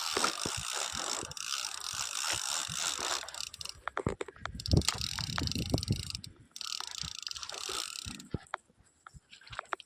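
Fishing reel ratcheting and clicking in two long bursts while a hooked fish is played on the rod, with lower knocks in between.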